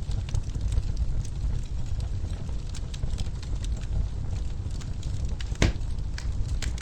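Wood fire crackling in a fireplace: a steady low rumble of burning logs with scattered sharp crackles, and one louder pop near the end.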